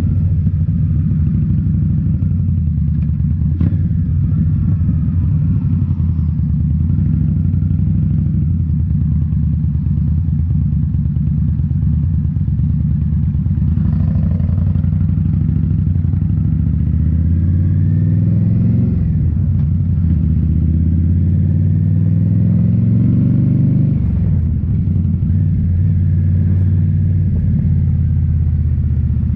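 2018 Indian Scout Bobber's V-twin engine running through Rinehart slip-on mufflers while riding. In the second half the engine note climbs twice under acceleration, each climb falling back sharply.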